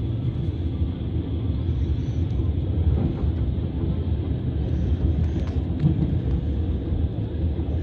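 Steady low rumble of a passenger train carriage running along the rails, heard from inside the carriage, with a few faint knocks.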